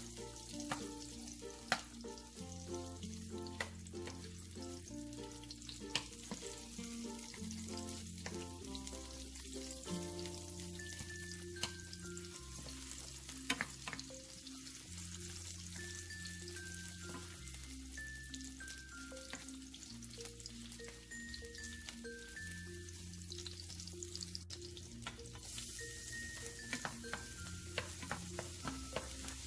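Sliced ginger and minced garlic sizzling in hot oil in a nonstick frying pan, stirred with a wooden spoon that now and then taps the pan. Soft background music with held notes plays underneath.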